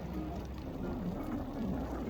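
Steady low rumble of wind and riding noise on the microphone of a moving electric bike, with faint wavering pitched notes over it.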